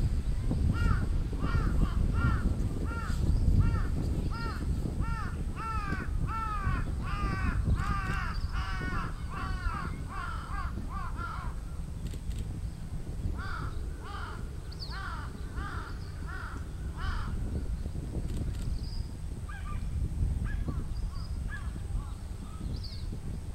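A bird calling in a long run of short, arched, repeated calls, two or three a second, that breaks off about eleven seconds in and comes back in a shorter run, with a few fainter calls after. A steady low rumble lies under it.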